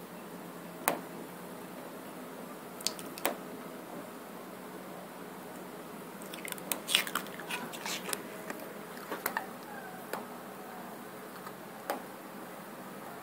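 Masking tape and rubbery Plasti Dip film being peeled off around a truck emblem: scattered sharp crackles and clicks, with a dense run of crackling about six to eight seconds in.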